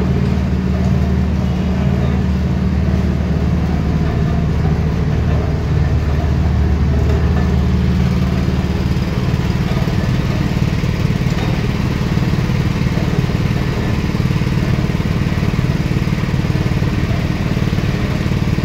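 Small petrol engine driving a sugarcane juice machine, running steadily; its note shifts slightly about nine seconds in.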